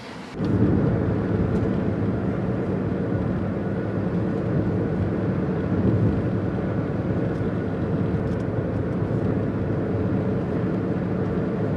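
Steady rumble of a vehicle running, a dense low noise with a faint hum in it, starting suddenly about half a second in.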